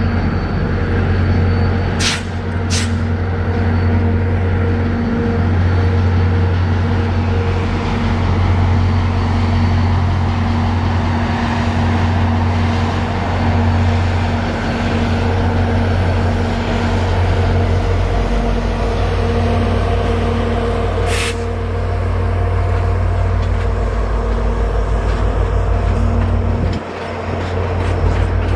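Diesel passenger locomotive running steadily: a deep, even engine hum with constant tones above it. Brief sharp noises come twice about two seconds in and once more about 21 seconds in.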